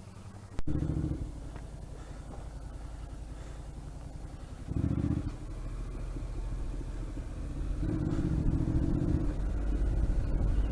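Motorcycle engine under way and accelerating, with short louder surges of revs about half a second in, at about five seconds and again around eight to nine seconds, over a low rumble that builds steadily.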